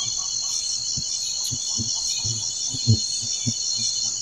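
A dense chorus of insects chirping as a steady, high, pulsing trill. Several soft low knocks sound close by, the loudest a little before three seconds in.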